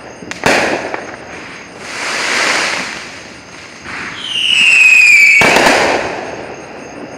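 Fireworks going off: a sharp bang about half a second in, a swell of crackling hiss around two seconds, then a loud whistle that falls slightly in pitch for about a second before a second bang, which echoes away.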